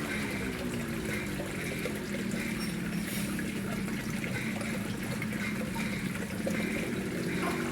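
Water flowing and trickling steadily into a koi pond, with a continuous low gurgle.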